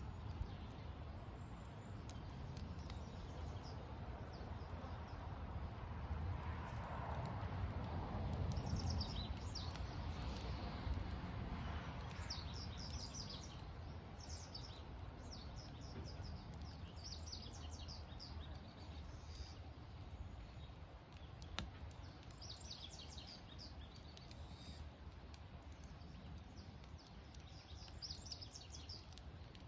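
Campfire burning with scattered sharp crackles over a low, steady rumble. Groups of short, high chirping calls come every few seconds.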